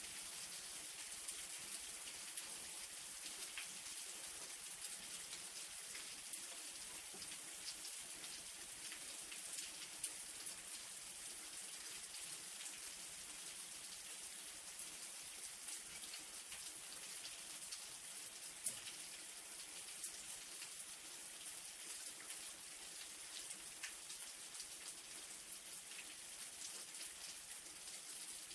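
Light rain falling steadily, a soft even hiss scattered with individual drops ticking, and a few louder drips now and then.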